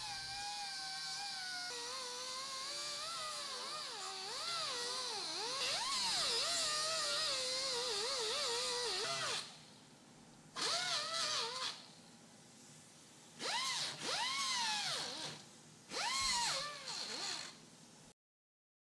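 Small power sanding tool with 80-grit sandpaper shaping a plastic repair on a bumper tab: a whine that wavers in pitch as it is loaded against the work for about nine seconds, then three short runs that each spin up and wind down.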